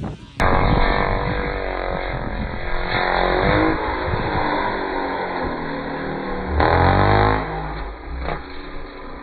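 Small dirt bike engine running and revving, its pitch climbing about three seconds in and again, louder, around seven seconds.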